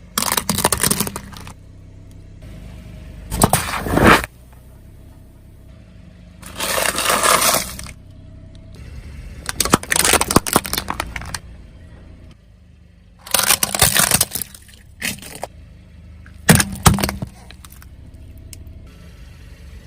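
Car tyres rolling over and crushing crunchy objects: about seven loud bursts of crackling, snapping and breaking, with the car's low rumble in between.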